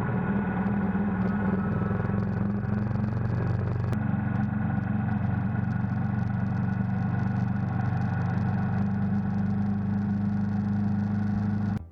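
Royal Enfield motorcycle engine running at a steady, even pitch as the ride gets under way, with a slight jump in the sound about four seconds in; it cuts off sharply at the very end.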